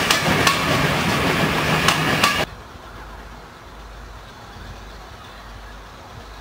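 Railway coaches passing close at speed: a loud rush of wheels on rails with sharp clicks as the wheels cross rail joints. About two and a half seconds in it cuts off suddenly to a much quieter, distant low rumble of a train.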